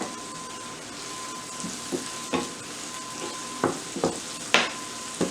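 Mushrooms sizzling in melted butter and olive oil in a pan, with a spoon knocking against the pan several times during the second half as they are stirred.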